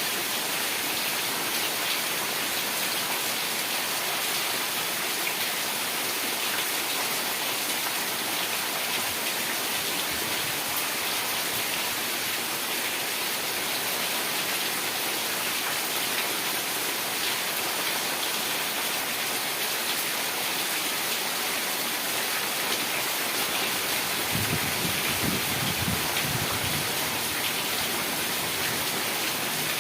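Heavy rain falling steadily, a dense even hiss of drops. Near the end a low rumble of thunder begins under it.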